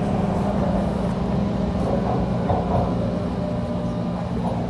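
Toronto subway T1 train running, a steady low rumble with a constant hum.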